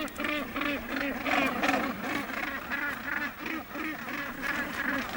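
Crowded northern gannet colony calling: many harsh, grating, rasping calls repeated rapidly, about three or four a second, from birds squabbling over nest sites.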